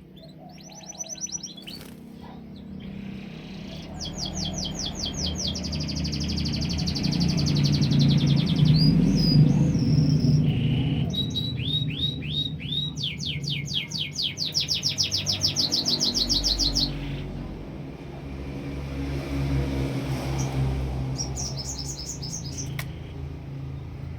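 Canary singing in long, rapid rolling trills of high, evenly repeated notes, broken into several phrases, over a steady low hum.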